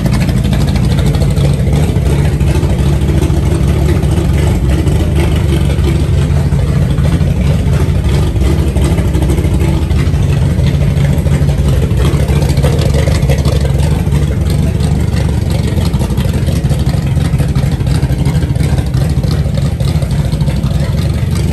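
Freshly built 360 stroker V8 running steadily during its first start-up.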